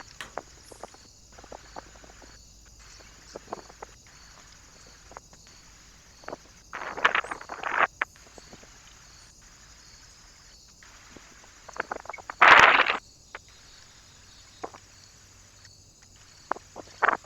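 Scattered light taps and rustles from birds moving about a feeder perch, with two louder rustling bursts, about seven and twelve seconds in.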